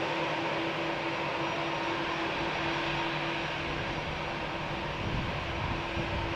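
Jet airliner engines running, a steady rushing noise with a faint steady hum underneath.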